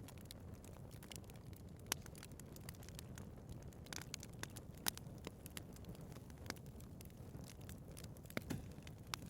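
Wood fire burning in a fireplace: a low, steady rumble of flames with scattered sharp crackles and pops from the burning logs, the loudest pops about two and five seconds in.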